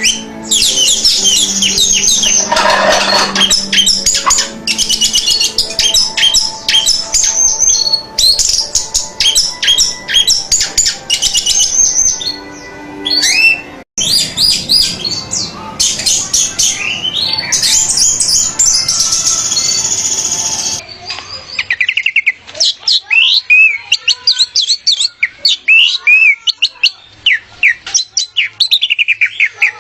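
Orange-headed thrush (anis merah) singing a fast, continuous run of varied whistles, chirps and trills. The recording changes abruptly about halfway through and again about two-thirds through, as spliced song clips do.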